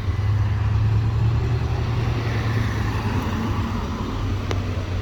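Engine of a nearby motor vehicle running with a steady low rumble, over general road traffic noise.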